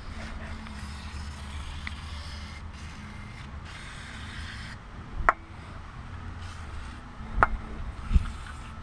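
Two sharp knocks about two seconds apart and a dull thump just after the second, over a low steady hum: parts or tools being handled during car repair work.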